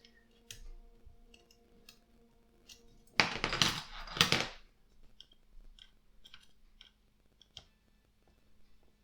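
Small screwdriver clicking and scraping as it turns a tiny screw against the die-cast metal tail panel of a scale model aircraft; the screw is not biting. There are two louder scraping noises about three and four seconds in.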